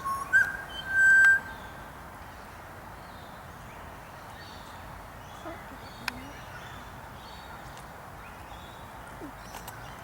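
Outdoor birdsong: two loud, clear, steady whistled notes in the first second or so, then faint scattered chirps of distant birds over a steady low background noise, with one sharp click about six seconds in.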